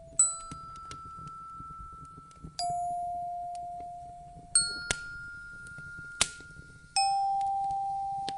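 Slow bell-like chime notes, one struck about every two seconds, each ringing out and fading while the pitch alternates between a higher and a lower note. Under them a fireplace gives off a few sharp crackling pops over a low steady rumble.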